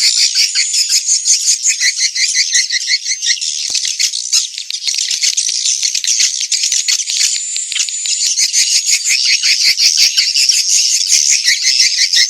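Swiftlet lure call: a dense, continuous chorus of rapid rattling chirps and twitters, many layered together so that no single call stands out. It is the kind of recording played at a swiftlet nest house to draw the birds in.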